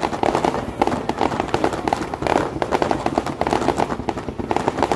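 Fireworks going off in a dense, rapid run of many bangs and crackles a second, with no pause.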